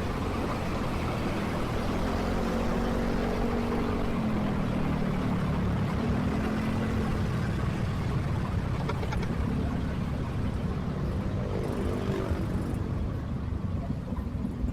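Motorcycle engine running in traffic, its note rising and falling a few times with the throttle over a steady rush of road and traffic noise.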